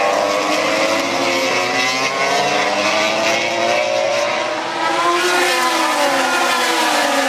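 Several 800cc MotoGP race bikes running at high revs as they pass, their engine notes overlapping. The pitch climbs about five seconds in, then drops away.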